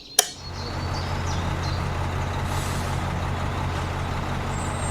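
A click, then a small motor on a DIY mini tractor starts up and runs with a steady low hum.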